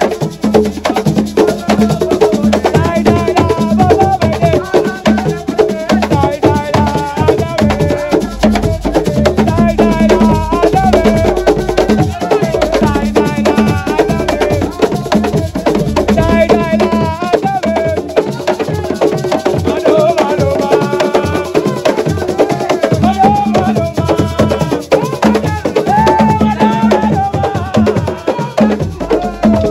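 Assiko music: singing over dense, driving hand drums and clacking percussion.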